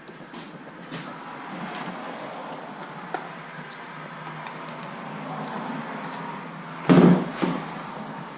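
Handling noises with light clicks, then a loud clunk about seven seconds in and a smaller knock just after.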